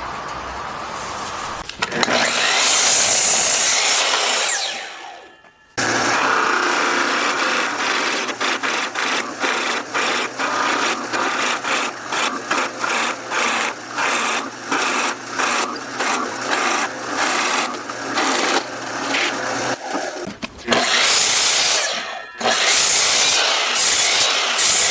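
Woodworking tools on wood: a power tool runs loudly and winds down with a falling pitch, then a long run of rhythmic hand strokes rubbing across the wood, about two a second, before a power tool runs again near the end.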